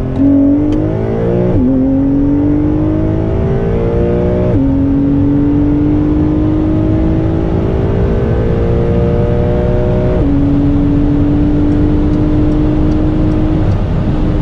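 Porsche 992 Carrera 2S's twin-turbo flat-six at full throttle, its pitch climbing through the gears of the 8-speed PDK. Three quick upshifts come at about one and a half, four and a half and ten seconds in, each gear held longer than the last. The pitch levels off near the end.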